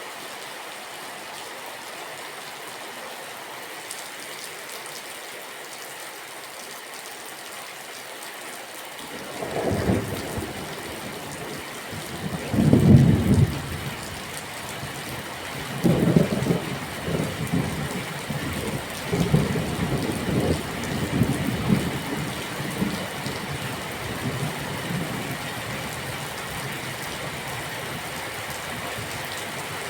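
Steady rain hiss. About a third of the way in, thunder starts rolling in a series of deep rumbles, the loudest a few seconds later, then dies away into the rain.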